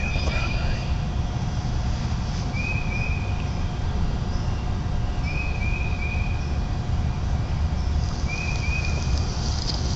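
A songbird repeating a short high phrase of two or three quick notes, four times about every two to three seconds, over a steady low rumble.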